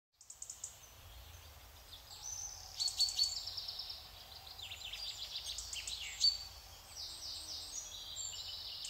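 Birds chirping: quick runs of short, high repeated notes and trills, starting just after a moment of silence.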